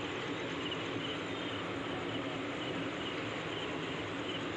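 Passenger train coaches running past on the track with a steady rolling noise, while crickets chirp in short high notes about twice a second.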